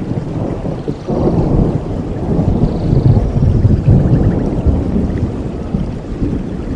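Rolling thunder over steady rain: a deep rumble swells about a second in, peaks around the middle and slowly eases off.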